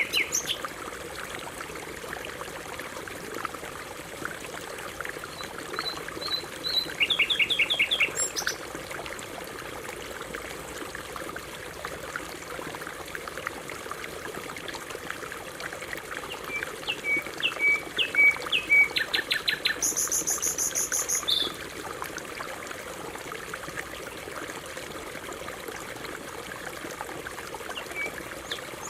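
Canary singing in short bursts of rapid trilled notes, two main phrases with a long pause between, the second one higher and louder. Under it runs a steady trickle of flowing water.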